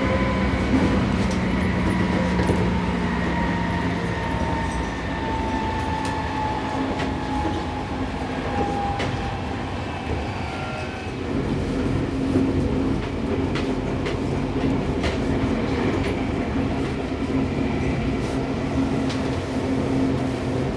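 Seibu 6000 series electric train heard from inside a motor car: the whine of its Toshiba IGBT VVVF inverter motors glides down in pitch for about the first nine seconds as the train slows, then fades out. A steady lower hum, running noise and wheel clicks over rail joints continue throughout.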